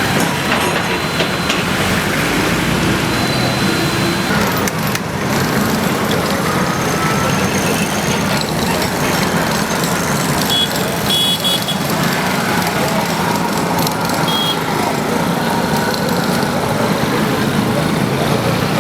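Heavy engine running steadily amid loud street noise, with voices in the background.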